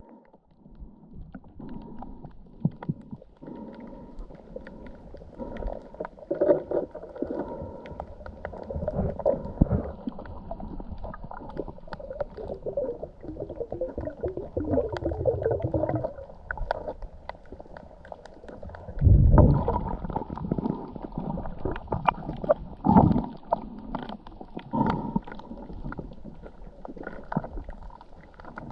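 Muffled, irregular gurgling and sloshing of water with scattered clicks, and loud low rumbling thumps about 19 and 23 seconds in.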